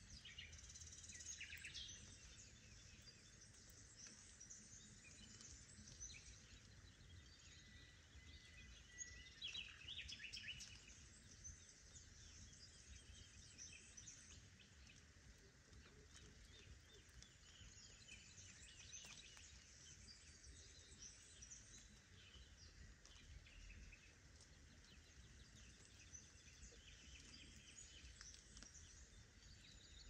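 Faint birdsong: several birds chirping and trilling in short scattered phrases, most prominent about ten seconds in, over a steady low rumble.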